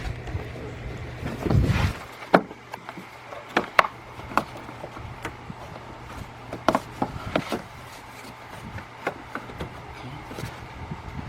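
Hand work on car parts: a trim panel being fitted under the windshield, making scattered sharp clicks and knocks, with a louder rustle of handling about 2 s in, over a steady low hum.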